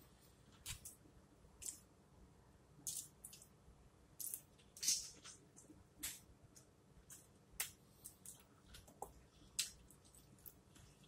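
Close-up mouth sounds of a person eating: chewing and lip smacks, heard as a string of soft, wet clicks about once a second.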